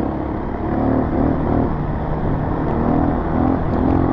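Motorcycle engine running under riding load on a loose dirt trail, the pitch rising and falling as the throttle is worked, over a low rumble.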